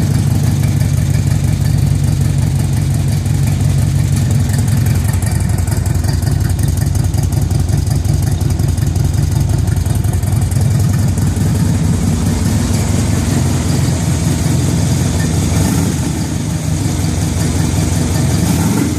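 2004 Harley-Davidson Road Glide's air-cooled Twin Cam 88 V-twin idling steadily through its stock slip-on mufflers.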